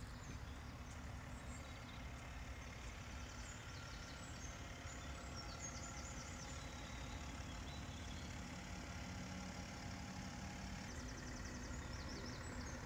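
BMW X5 xDrive40d's straight-six diesel idling steadily, a low even rumble, with birds chirping briefly now and then.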